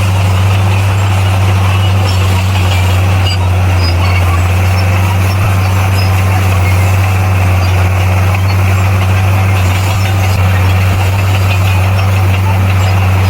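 Bulldozer's diesel engine running steadily, a deep constant drone that holds without change.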